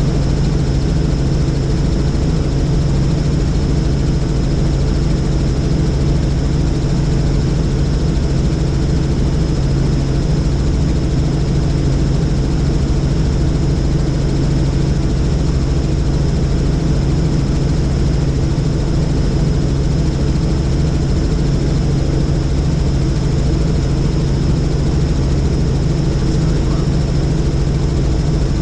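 Helicopter in flight: a loud, steady drone of rotor and engine with a fast low pulsing and a thin, steady high whine above it.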